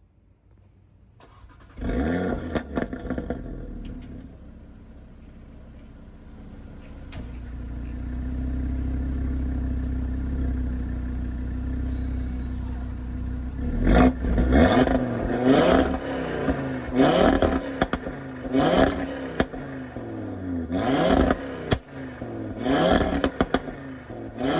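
Audi RS3's turbocharged 2.5-litre five-cylinder starting with a brief rev flare, settling to idle, then held steady at higher revs for several seconds. From about halfway it is blipped six or seven times, the revs rising sharply and falling back each time, with crackles from the exhaust.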